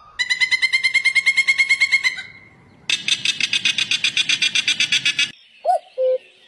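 An animal's rapid pulsed calls: a trill of about ten notes a second, a short pause, then a louder, harsher trill at the same pace, followed by two short chirps near the end.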